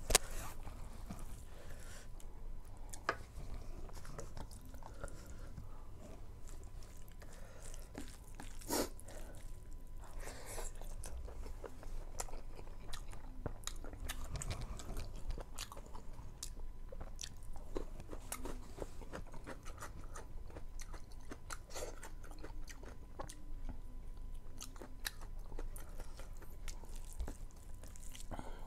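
A person eating rice and buffalo meat by hand, chewing with many small wet smacks and clicks.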